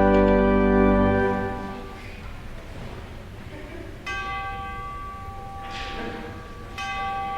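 A held final chord of choir music ends about a second in. Then a bell is struck twice, about three seconds apart, each stroke ringing on with a steady tone.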